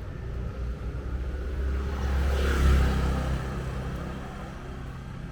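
A motor vehicle passing close by: its low engine hum and road noise swell to a peak about halfway through, then fade away.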